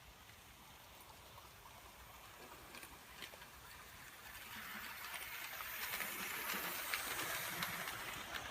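Model railway train running on garden track: a steady rolling clatter of wheels on rails that grows louder from about halfway through as the train comes closer, with light clicks.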